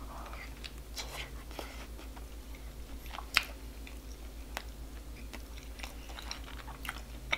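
A person bites into a hot dog in a soft bun and chews it, with small wet mouth clicks scattered throughout and a sharper click about three and a half seconds in.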